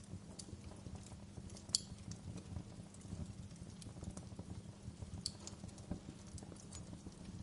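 Fireplace fire crackling: irregular sharp pops and snaps over a steady low rumble, with a louder pop about two seconds in and another near the middle.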